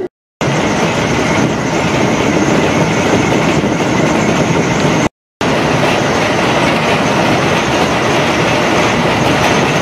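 JR West 225-series electric train running along the line, a steady loud rush and rumble of wheels and motors. The sound is broken by two abrupt silent cuts, just after the start and about five seconds in.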